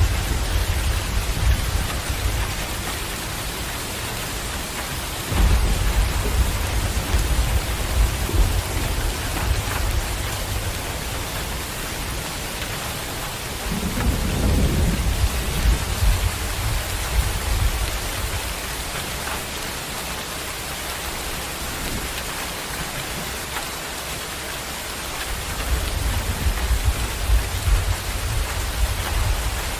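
Heavy rain pouring steadily, with low rumbles swelling up three times: about five seconds in, around the middle, and near the end.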